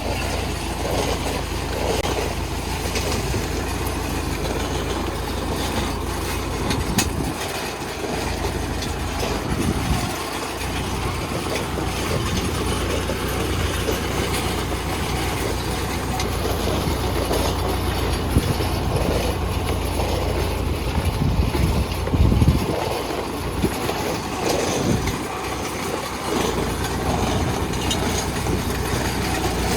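Tractor engine running steadily while towing a rattling, clattering drip-tape laying rig.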